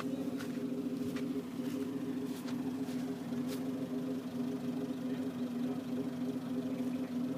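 Tractor engine running at a steady pitch, with a few faint clicks in the first few seconds.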